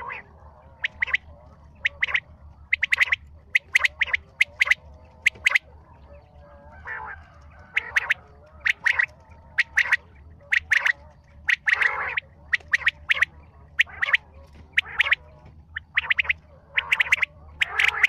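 Bird calls played for the bird known in Urdu as chitra: many short, sharp calls, coming singly and in quick runs with brief gaps, over a faint steady low hum.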